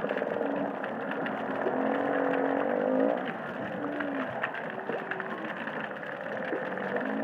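Humpback whale song heard underwater: several low moaning calls that swoop up and down in pitch, some overlapping, over the steady crackle of a coral reef.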